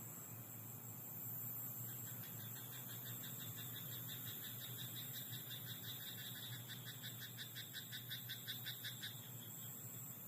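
A frog in a rice paddy calling in a fast, even series of pulsed croaks that starts about two seconds in, grows louder, and stops a little before the end, over a faint steady hiss.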